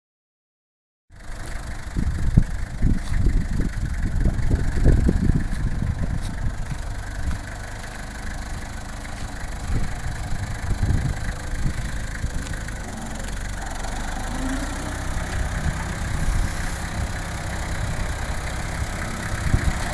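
Tractor engine running under load as the tractor climbs up onto a trailer. It comes in about a second in with heavy, uneven low rumbling for several seconds, then settles to a steadier run.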